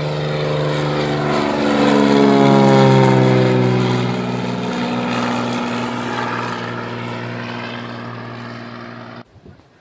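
Propeller airplane's engine passing close by, its pitch dropping as it goes past, loudest about three seconds in, then fading away before cutting off suddenly near the end.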